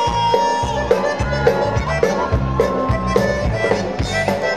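Tejano band music: an accordion playing held melody notes over a steady bass beat.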